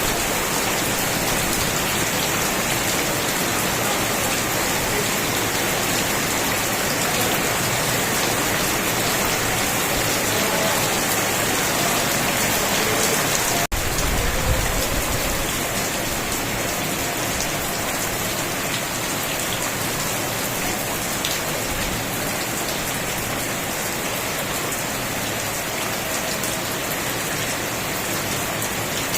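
Steady rain falling on a surface, an even dense hiss of drops, with a momentary cut in the sound about halfway through.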